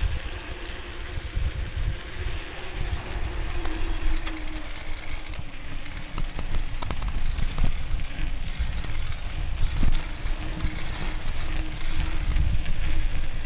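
Wind rushing over the microphone and tyres rumbling as a bicycle speeds downhill, with scattered light rattles and knocks from the bike.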